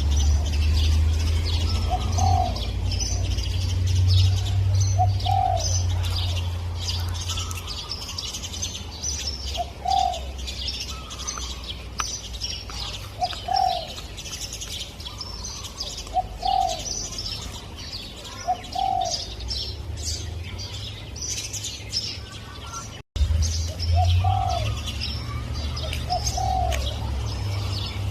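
Spotted dove cooing: short cooing phrases repeated every two to three seconds, over the chirping of small birds and a steady low rumble. The sound drops out for a moment about 23 seconds in.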